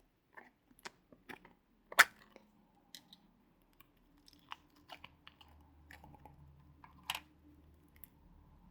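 Slime and clay being handled and squished: scattered small clicks, pops and crackles, with a sharp click about two seconds in and another just after seven seconds.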